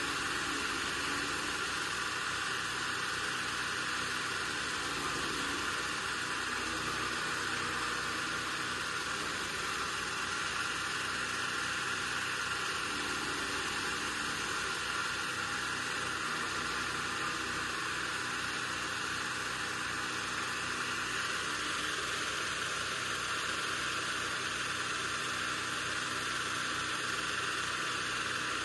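Chaff cutter machine running steadily without load changes: an even mechanical whir with a faint regular low beat underneath.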